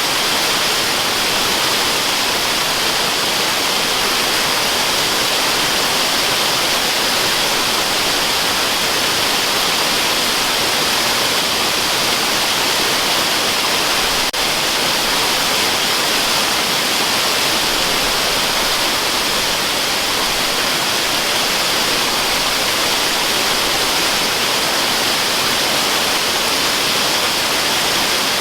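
Waterfall rushing: a steady, even wash of falling-water noise, strongest in the hiss range, that does not change.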